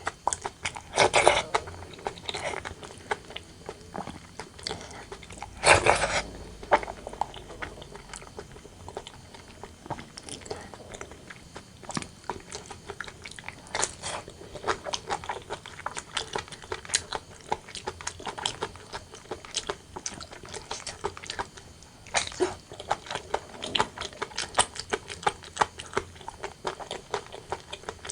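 Close-miked chewing and biting of braised pork and rice: a steady run of wet mouth clicks and smacks, with louder bites about a second in and again around six seconds in.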